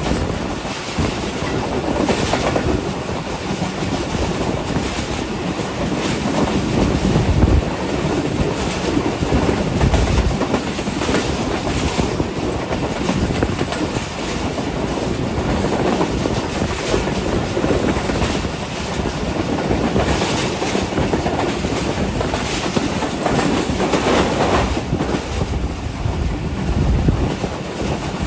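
Shalimar Express passenger coach running along the track, heard from its open doorway: a steady rumble of steel wheels on the rails with irregular clatter as the wheels pass over rail joints.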